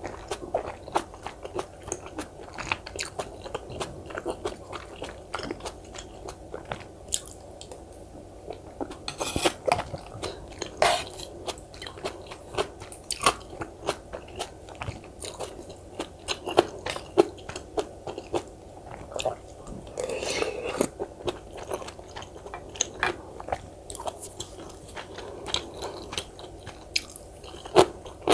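Close-miked eating sounds: steady chewing with crunchy bites and wet mouth clicks, from rice cake dumpling soup eaten with kkakdugi (cubed radish kimchi).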